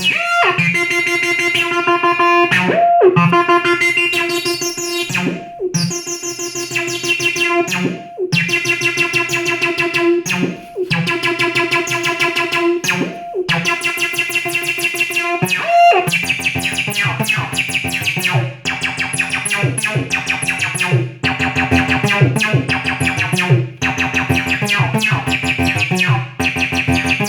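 Behringer TD-3 analog bass synthesizer playing an acid bassline: a fast, repeating sequence of notes with a pitch slide up roughly every two and a half seconds. About halfway through, the pattern changes to lower, more rapidly repeated notes.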